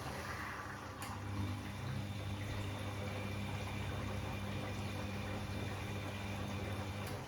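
Bosch Classixx 6 washing machine starting its cooldown after a 90° cottons wash: water running in through the inlet over a steady motor hum, with a sharp click near the start and another about a second in.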